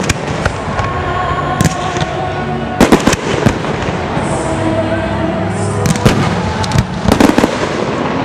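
Fireworks going off in sharp bangs and crackling clusters, the heaviest about three seconds in and again around six to seven seconds, over steady background music.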